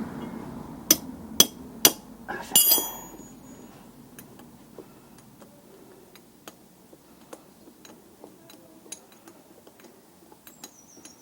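Metal hand tools and brake parts knocking together: three sharp clicks about half a second apart, then a brief ringing metallic clatter, followed by faint scattered ticks.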